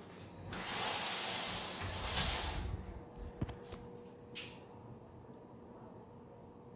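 Shower door being opened: a rush of sliding noise lasting about two seconds, followed by a few light clicks and a short knock.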